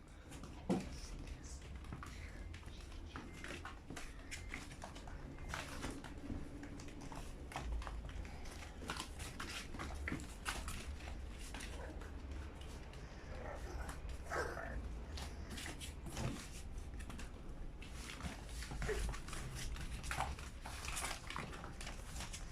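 French bulldog puppies playing: many short scuffling and clicking noises, with a few brief high-pitched sounds from the puppies.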